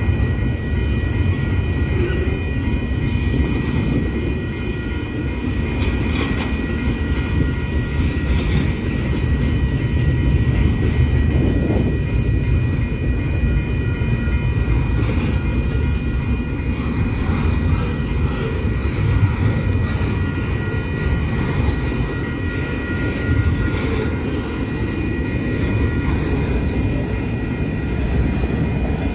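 Double-stack intermodal freight train's container well cars rolling past: a steady low rumble of wheels on rail with the odd clank. Steady high-pitched ringing tones sit over the rumble and weaken in the last few seconds.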